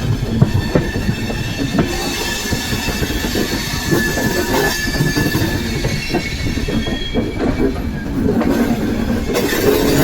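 Amrit Bharat Express passenger train running along the track: a steady rumble and rattle of the coach wheels on the rails.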